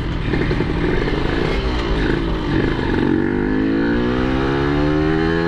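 Yamaha RX King's two-stroke single-cylinder engine running under way; about three seconds in, its pitch climbs steadily as the bike accelerates.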